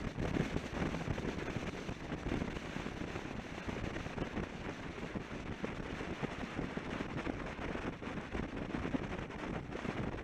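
Wind buffeting the microphone of a camera on a moving motorcycle at road speed, a steady rough rush with the bike's running noise underneath.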